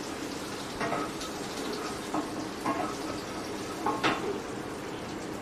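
Oil sizzling in a non-stick kadai as dried red chillies and crushed garlic fry for a tempering, stirred with a wooden spatula, with a few brief scrapes and knocks of the spatula on the pan.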